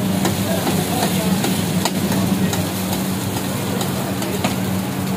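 Eggs sizzling in oil on a large flat griddle (tawa), with a metal spatula scraping and clicking across the iron a few times, over a steady low hum.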